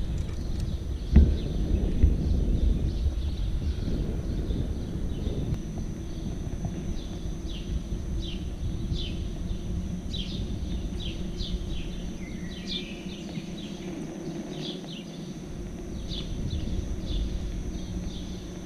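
Small birds chirping in many short, quick falling notes from about five seconds in, over a low rumble of wind and rolling from a moving electric unicycle with a steady low hum. A single thump about a second in.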